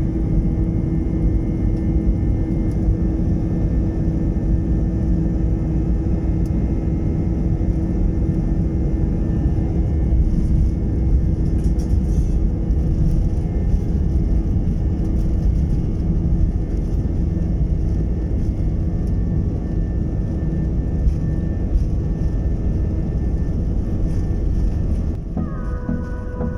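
Jet airliner engines heard from inside the cabin: a loud, steady rumble with a constant hum and whine. Music comes in near the end.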